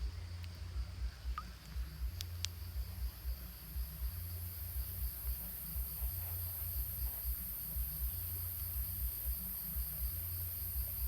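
Insects trilling steadily in a high, pulsing chorus that grows stronger a few seconds in, over a regular low thudding. A few sharp clicks sound in the first couple of seconds.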